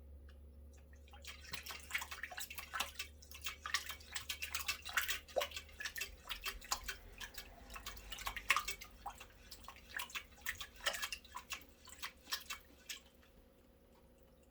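A cat lapping water with its tongue: quick wet clicks, several a second, starting about a second in and stopping near the end.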